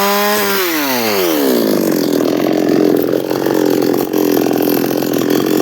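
Chainsaw engine running at high speed, then winding down in pitch about half a second in, settling into a lower, rougher running sound with a fast, even pulse.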